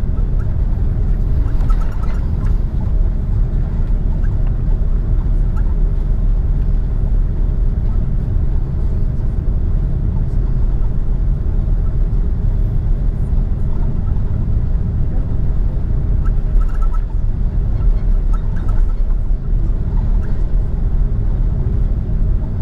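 Steady low rumble of an Airbus A330's cabin as the airliner taxis, engines running at idle and the airframe rolling over the taxiway, with a constant hum under it.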